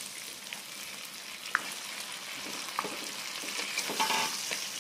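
Jumbo prawns frying in hot oil and spice paste in a wok: a steady sizzle, with a metal spatula clicking and scraping against the pan a few times, the sharpest click about a second and a half in.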